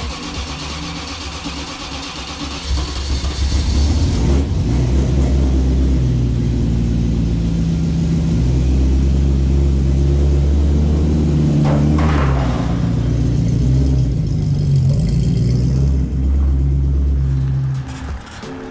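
Car engine running and being driven, with background music over it.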